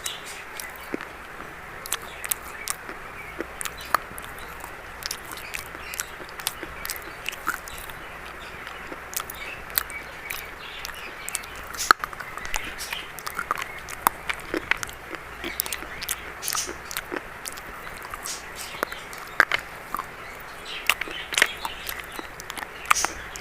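Close-up crunching of a dry brown biscuit: irregular sharp crunches and cracks every second or so, with soft chewing between them.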